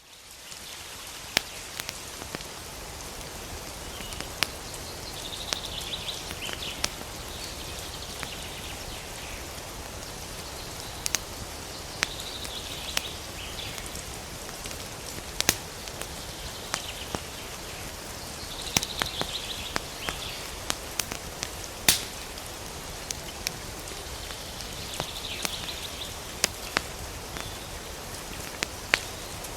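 Campfire crackling and popping with sharp snaps scattered irregularly over a steady hiss, while a bird chirps in short bursts four times, about every six to seven seconds.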